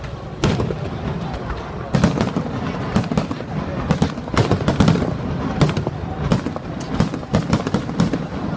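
Fireworks going off: many irregular bangs, a few clearly louder than the rest, over a continuous rumble of distant bursts.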